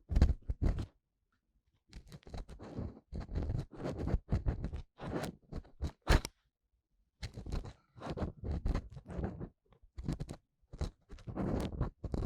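Ear-cleaning tool scraping and rubbing inside the ear of a binaural dummy-ear microphone, in clusters of crunchy strokes broken by two short pauses.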